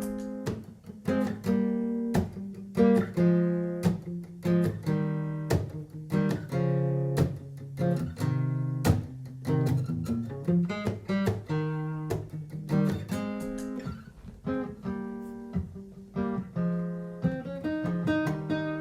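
Martin GPCPA4 acoustic-electric guitar playing a passage of plucked and strummed chords, without vocals.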